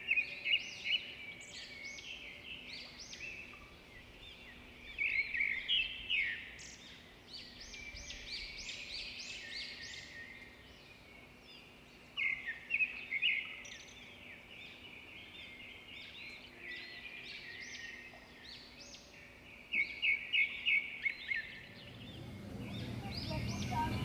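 Birds chirping and singing in repeated bursts of quick, high notes, over a faint steady low hum; a low rumble builds near the end.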